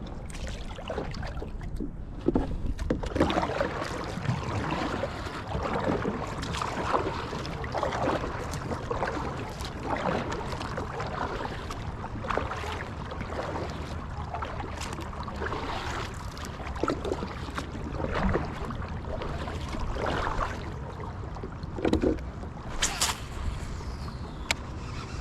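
Water splashing and sloshing around a kayak in irregular bursts, with knocks and rustles of movement on board and a sharp click near the end.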